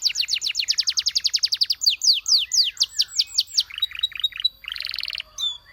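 Canary singing a song of repeated-note trills: a fast run of rapidly repeated sweeping notes for about two seconds, then slower sweeping notes, then a short buzzy roll near the end.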